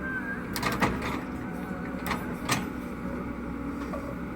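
Caterpillar 307E2 mini excavator's diesel engine running steadily, with a cluster of sharp knocks just under a second in and two more around two to two and a half seconds in.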